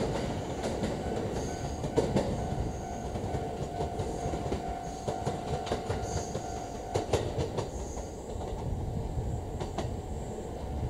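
JR 285-series sleeper electric train rolling slowly over rail joints and points, its wheels clacking and knocking over a steady running rumble. A steady whine is heard from about two seconds in to about seven seconds.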